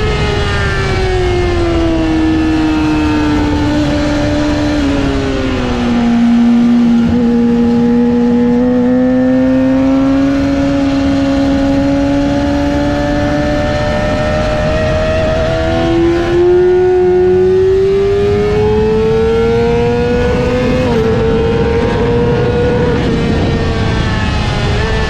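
Yamaha R6 inline-four sport-bike engine at track speed with heavy wind rush. The revs fall over the first several seconds as the bike slows, stay lower through the middle, then climb hard again from about two-thirds of the way in and ease off near the end.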